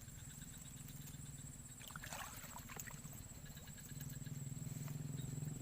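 Outdoor ambience: a steady high insect whine over a low steady hum, with a brief rustling, splashy noise about two seconds in.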